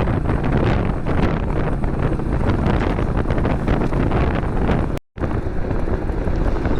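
Heavy wind rushing over the microphone of a motorbike at highway speed, with engine and road noise underneath. The sound cuts out completely for a split second about five seconds in.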